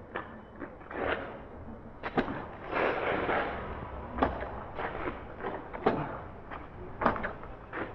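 Riding noise from a fat-tire electric bike on a wet road: a rough background of wind and tyre noise, broken by a dozen or so sharp, irregular knocks and clatters as the bike bounces.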